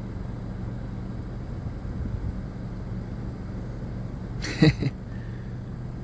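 Steady low machine hum, like idling machinery. About three-quarters of the way in, a brief loud vocal sound cuts through it.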